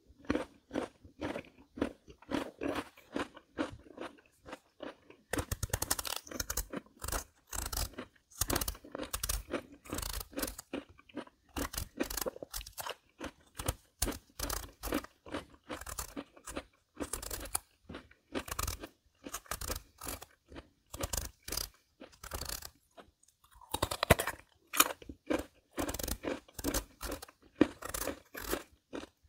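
Crisp Korean melon (chamoe) being bitten and chewed: a steady run of short crunches, one after another, with a louder crunch a little after the twenty-second mark.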